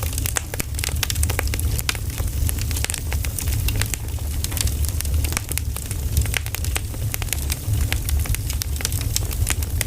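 Campfire burning, crackling with many sharp irregular pops, over a steady low rumble.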